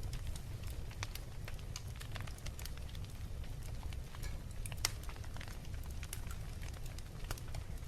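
Wood fire in a fireplace crackling, with irregular sharp pops over a steady low rumble; one louder pop near the middle.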